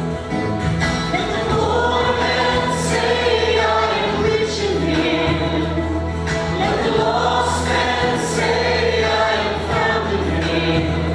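Gospel-style Christian worship song: a group of voices singing together over a band with steady held bass notes.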